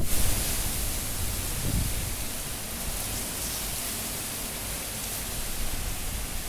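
Cyclone-force wind blowing in gusts: a continuous rushing hiss with low rumbling surges, the strongest right at the start and again about two seconds in, then a steadier rush.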